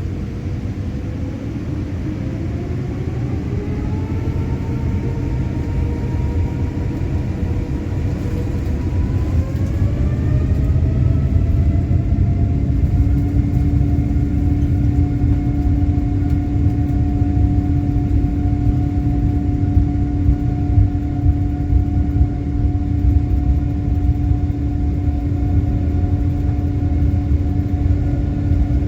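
Boeing 787 turbofan engines spooling up to takeoff thrust, heard inside the cabin. A low rumble grows louder under a whine that rises in pitch in two steps, then holds steady.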